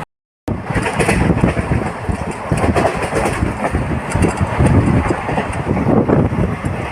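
A moving train rumbling and rattling along the track, with wind noise on the microphone. The sound starts after a brief dropout at the very start.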